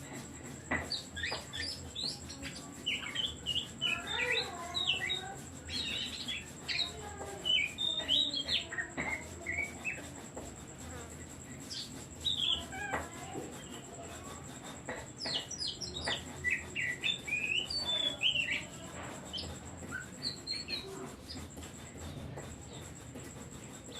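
Oriental magpie-robin (kacer) singing: quick, varied phrases of whistles and chirps with brief pauses between bursts.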